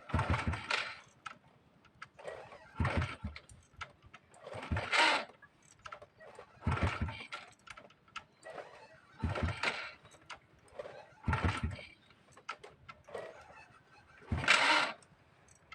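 Honda motorcycle being kick-started again and again: seven short bursts of cranking, about two seconds apart. The engine does not settle into a steady run.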